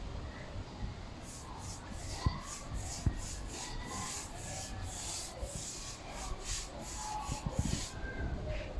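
Cloth being rubbed over a polished stone floor in quick back-and-forth strokes, about two or three a second, buffing in the polish.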